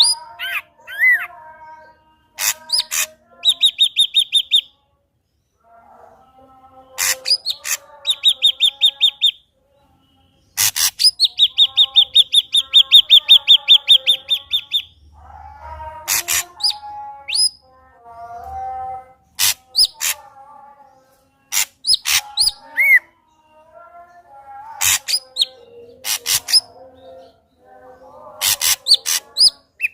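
Ashy drongo singing a varied, loud song. Sharp clicks, upslurred whistles and low warbling phrases alternate with fast trills of identical repeated notes, about eight a second. The longest trill, in the middle, lasts about four seconds and is the loudest part.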